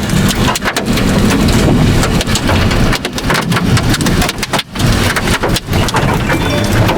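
Loud storm noise: rain and rumbling wind on the microphone over a vehicle engine running underneath. The sound keeps cutting out in brief gaps.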